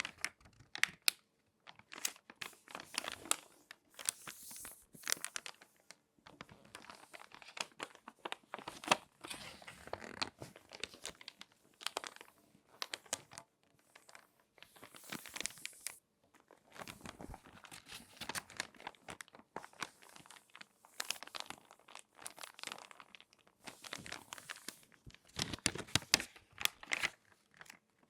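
Glossy magazine pages being folded and handled, giving irregular crinkling rustles with sharp crackles and brief pauses between folds.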